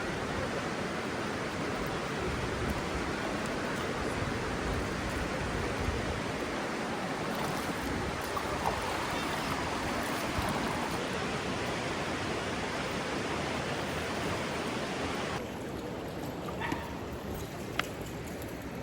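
Steady rush of river water. About three quarters of the way through it cuts abruptly to a quieter, duller rush with a few small clicks.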